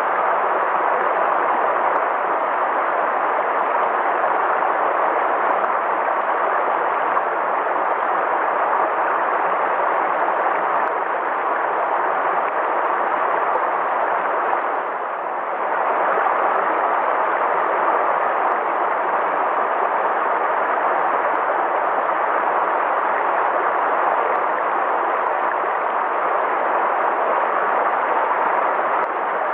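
River water flowing in a steady, unbroken rush, dipping briefly about halfway through.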